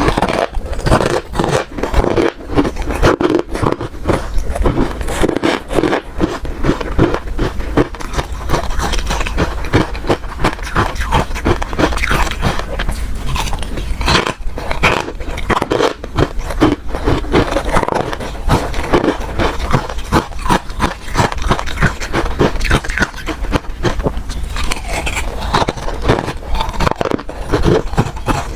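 Ice being bitten and chewed close to the microphone: a continuous run of loud, rapid crunches and cracks.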